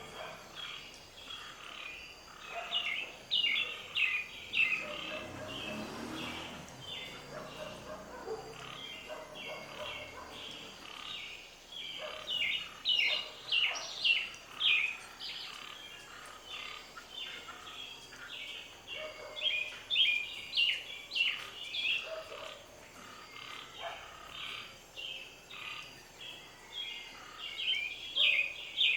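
Small birds chirping and twittering, short quick notes coming in louder bouts every several seconds.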